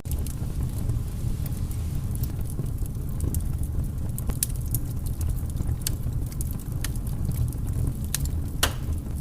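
Wood fire burning in a fireplace: irregular sharp pops and snaps over a steady low rumble, with one louder pop near the end.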